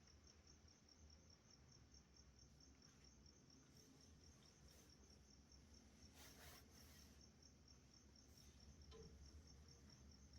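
Faint, steady chirping of night insects: a high, evenly pulsed trill of about five pulses a second, with a brief faint rustle a little past the middle.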